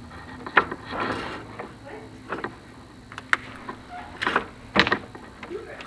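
Chimney inspection camera and its cable being worked down a masonry flue: irregular knocks and short scrapes, a few sharp ones, over a steady low hum.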